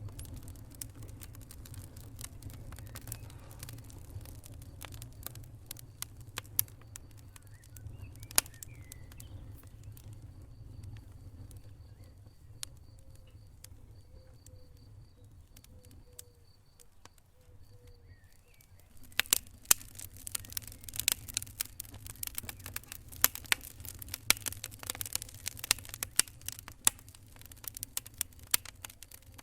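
Wood fire crackling and popping over a low rumble of burning. The crackles thin out for a while in the middle, then come thick and loud again about two-thirds of the way through.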